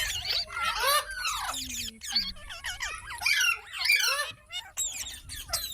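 Parrots chattering, a rapid run of squeaky, overlapping calls that sweep up and down in pitch.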